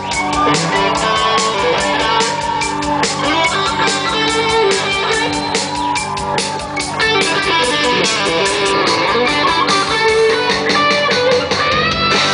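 Live rock band playing an instrumental break, an electric guitar taking the lead with held and bending notes over drums and bass.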